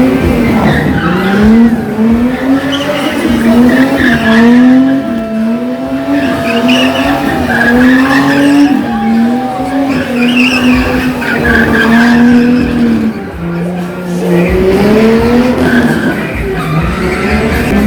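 Drift car's engine revving up and dropping back over and over, about once a second, with tires squealing as the car slides. The engine eases off briefly near the end, then revs up again.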